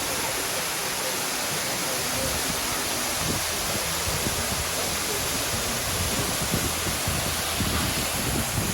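Waterfall rushing in a steady, even hiss, with irregular low buffeting on the microphone from about three seconds in.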